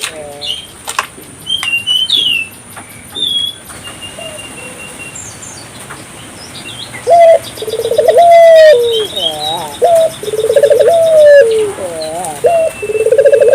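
Puter dove (Barbary dove) cooing vigorously in repeated rolling phrases of low, rising-and-falling notes, starting about halfway through. Small birds chirp faintly and higher up before the cooing begins.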